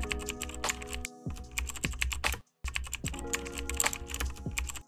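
Rapid computer-keyboard typing clicks over background music with a low bass line; both cut out for a moment about halfway through, then resume.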